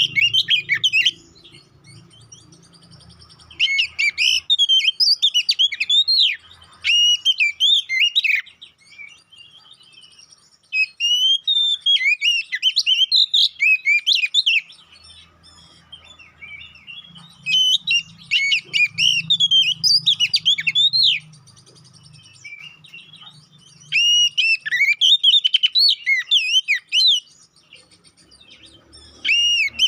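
Oriental magpie-robin (kacer) singing loudly in bursts of quick, rising and falling whistled phrases. Each burst lasts a few seconds, with short pauses between them.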